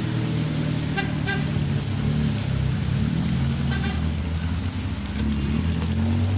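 Road traffic: motor vehicle engines running close by, their pitch shifting as they move, over a steady noise. Short high beeps sound twice about a second in and once near four seconds.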